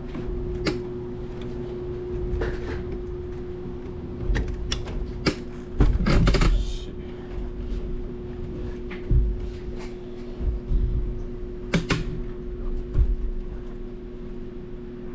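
Soda cases and a hand truck being handled: scattered knocks, creaks and rattles, with a louder clatter about six seconds in, over a steady hum.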